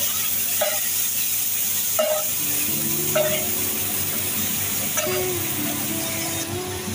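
Wet onion-and-tomato masala sizzling and hissing on a large hot flat tawa just after a splash of water, with a metal spatula scraping and stirring through it about four times.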